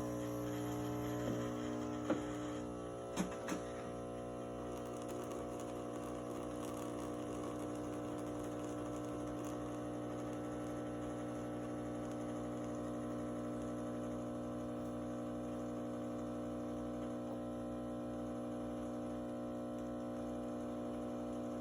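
Miele CM 5310 automatic coffee machine pumping espresso: a steady hum, with a few clicks about two to three seconds in.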